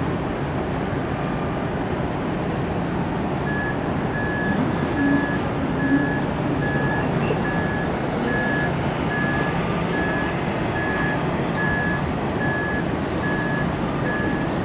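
A vehicle's reversing alarm beeping steadily, about two beeps a second, starting a few seconds in, over a steady rumble of vehicle engine noise.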